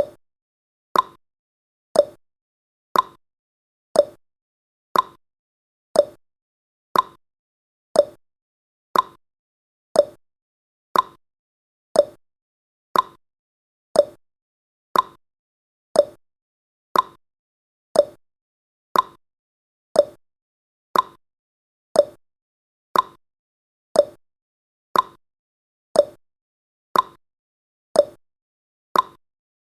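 Countdown timer's ticking sound effect: one short, sharp tick every second, perfectly steady.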